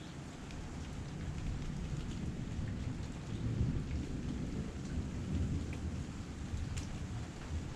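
Heavy rain pouring down, with a deep low rumble that swells in the middle and scattered individual drops ticking over the top.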